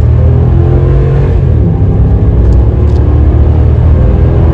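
Dodge Ram's Hemi V8 under hard acceleration. The engine note climbs, drops about a second and a half in, then climbs again, like an upshift at wide-open throttle.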